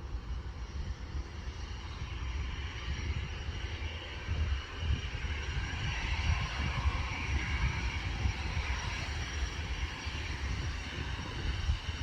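Aircraft engine noise from a passing plane, a steady rush that swells about halfway through and then eases off, with gusts of wind buffeting the microphone.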